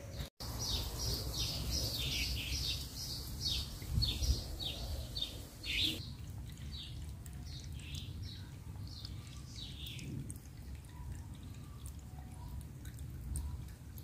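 A bird singing a run of short falling notes, about two a second, that turns fainter after about six seconds and dies away near ten seconds. Water trickles over stones underneath.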